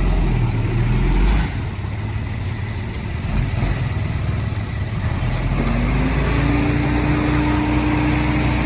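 Diesel engine of heavy earthmoving equipment running with a steady low drone. The drone eases off about a second and a half in, and a steady higher whine joins about six seconds in.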